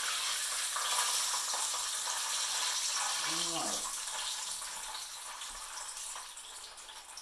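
Breaded chicken cutlets frying in hot oil in a frying pan, a steady sizzle that slowly dies down over the last few seconds as the cutlets are lifted out with tongs. A brief voice-like sound about three seconds in.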